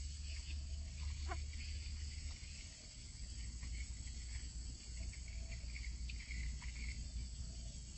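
Faint outdoor background: a steady low hum with scattered faint, short high chirps, and no dove calls.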